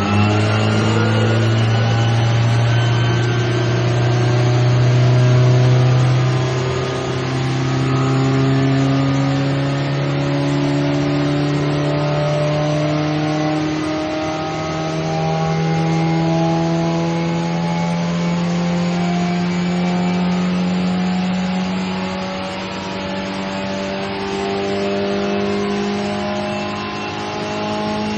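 750 Formula racing car engine running hard under load on a rolling road, its pitch climbing slowly in a few steps during a power run.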